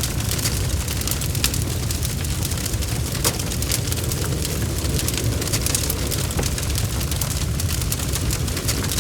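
Wood fire burning in a fireplace: logs crackling with frequent sharp little pops over a steady low rumble of the flames.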